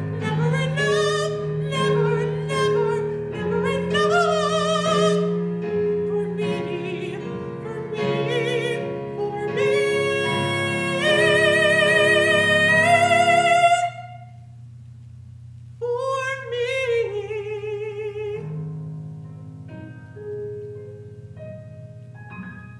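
A solo singer performs the closing of a musical-theatre pop ballad with piano accompaniment. The voice climbs with strong vibrato to a loud held high note that cuts off sharply about two-thirds of the way through. A short, softer sung phrase follows, and the accompaniment fades away.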